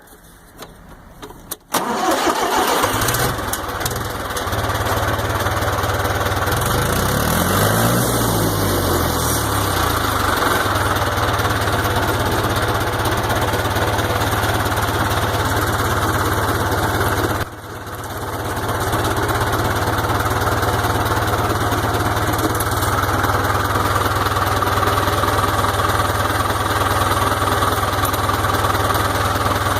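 International Harvester 584 tractor's four-cylinder diesel engine cranking and catching about two seconds in, then running steadily. Its speed rises and falls once around eight seconds in, and the sound dips briefly a little past halfway.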